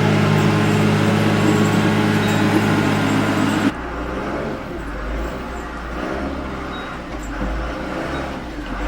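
Vehicle engine running steadily with an even hum. After nearly four seconds it changes abruptly to a deeper, rougher engine rumble.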